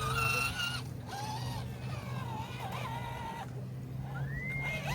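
A small RC rock crawler's electric motor and gears whining, the pitch rising and falling with the throttle and climbing near the end, over a steady low hum.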